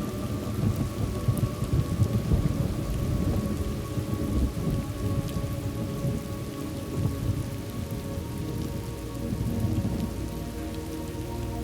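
Steady rain with low rolling thunder rumbling underneath, swelling and easing, loudest about two seconds in.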